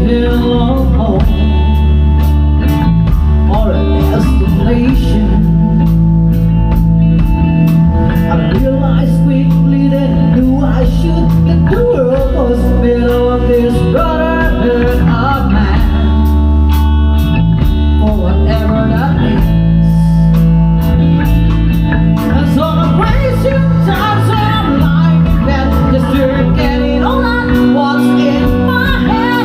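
Live band playing a song: drums keeping a steady beat under bass and electric guitar, with a singer's voice.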